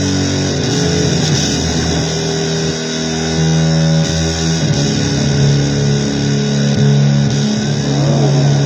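Distorted electric guitar playing blues-based noise music: held, droning notes layered over one another, with a wavering bend about eight seconds in.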